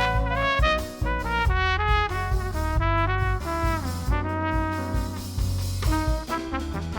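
Jazz quartet playing: a trumpet carries the melody in a run of changing notes, holding one longer note about four seconds in, over piano, double bass and drums.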